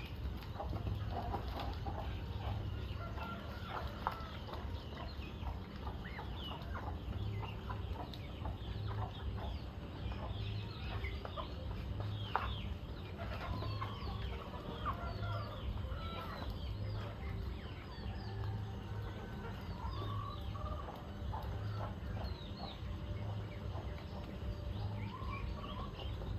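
A flock of chickens clucking and calling, many short calls overlapping all the way through, over a steady low hum.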